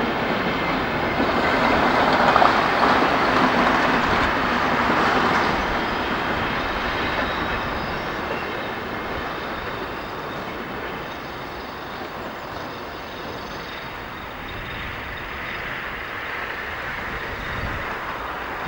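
Diesel train passing on the track, loudest a few seconds in and then fading as it moves away.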